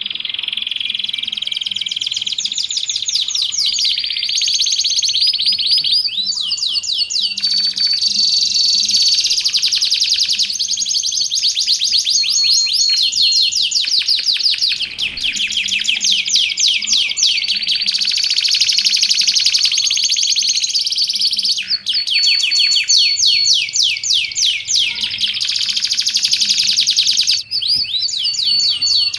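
A domestic canary singing continuously in long, fast trills and rolls of rapidly repeated sweeping notes, mixed with short held whistles, with only a few brief breaks.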